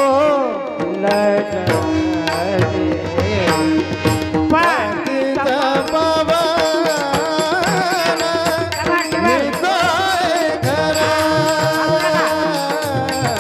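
Devotional bhajan singing: a voice sings long gliding, ornamented runs over steady sustained accompaniment, with tabla strokes throughout.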